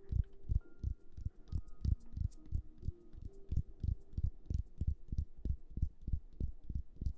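Rapid, even, muffled thumping close to the microphone, about four to five soft thuds a second: an ASMR tapping trigger. Faint held tones sound behind it.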